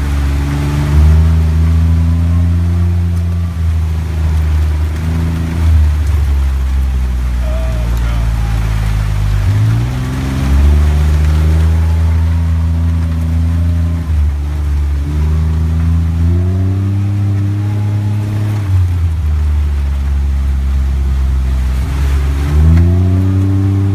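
Car engine heard while driving, its pitch rising, holding and dropping in steps as the vehicle speeds up and slows several times.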